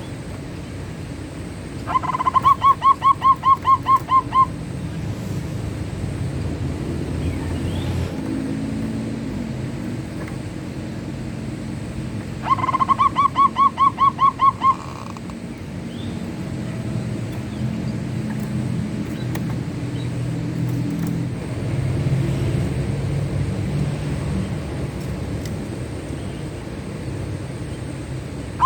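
Zebra dove (perkutut) cooing twice, each a rapid run of about ten short coos lasting two to three seconds, with a steady low rumble in the background.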